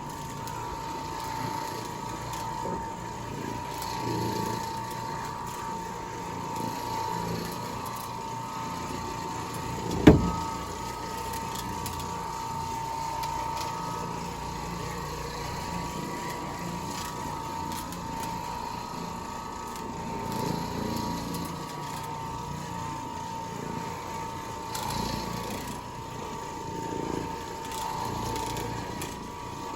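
A motor on carpet-cleaning equipment runs steadily with a constant high whine. A single sharp knock sounds about ten seconds in.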